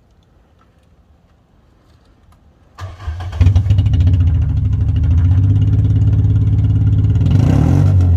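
Mk3 Volkswagen Golf GTI engine cranking and catching about three seconds in, then idling steadily.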